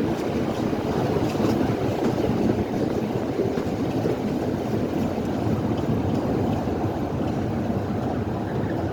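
BR Class 27 diesel locomotive, with its Sulzer six-cylinder engine, being worked hard under full power: a steady, dense, heavy rumble.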